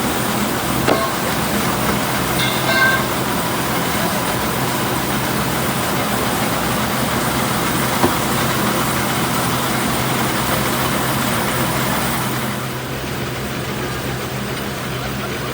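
Truck engine and road noise while driving, a steady drone with a low hum. The noise eases and gets duller about twelve seconds in.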